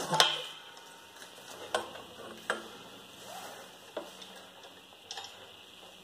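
A handful of short, sharp metallic knocks at irregular intervals, the first the loudest, from tools working on a seized rear wheel hub.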